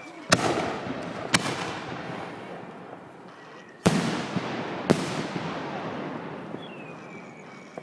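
Aerial fireworks exploding overhead: four sharp bangs in two pairs about a second apart, the second pair some two and a half seconds after the first. Each bang is followed by a long, slowly fading rumble.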